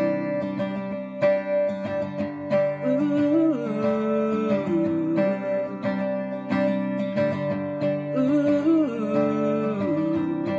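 Instrumental break of an acoustic pop song: strummed acoustic guitar with a gliding melody line over it.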